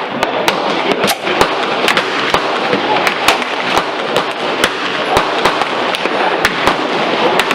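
Rapid, irregular gunshots at a shooting range, roughly twenty cracks at two to three a second, over a steady hiss, a pace typical of several shooters firing on neighbouring lanes.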